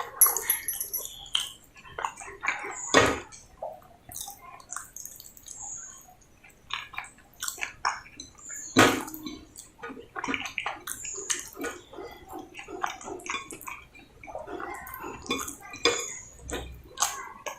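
Close-miked eating of potato sabzi with roti: wet chewing and mouth smacks in short, irregular clicks. There are two louder knocks, about three seconds in and again about nine seconds in.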